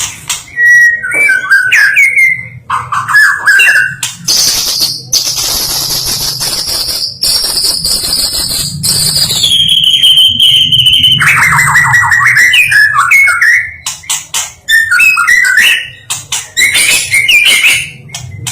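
White-rumped shama (murai batu) singing loudly: a string of varied whistled phrases, then a long high trill held for several seconds that steps down in pitch about halfway, followed by a rattling phrase and more quick whistles. A steady low hum runs underneath.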